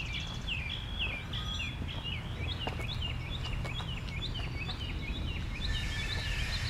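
Small birds chirping busily, many short rapid calls overlapping, over a steady low rumble.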